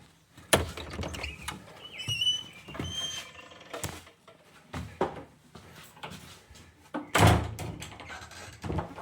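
Several knocks and thuds, the loudest about half a second in and about seven seconds in, with two short high squeaks about two and three seconds in.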